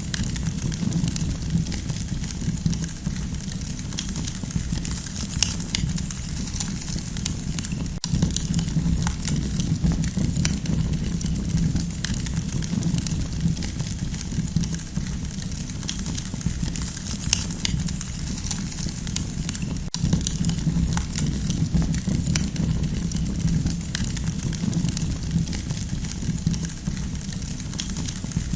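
Campfire crackling: frequent small pops and snaps over a steady low rumble.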